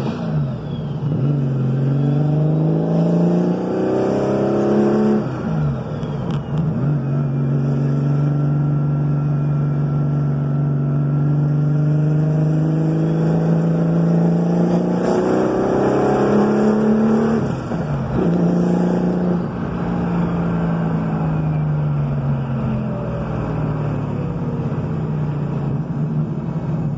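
Engine of a 1974 Porsche 934 turbo wide-body 911, an air-cooled flat-six, heard from inside the cabin as the car pulls away. It revs up through the gears, dropping in pitch at each upshift a few times, and runs at a steady cruise in between.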